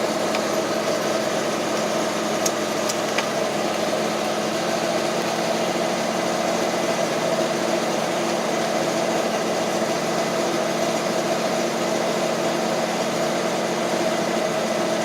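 1988 GMC 6000 box truck's 454 cubic-inch big-block V8 idling steadily after a cold start.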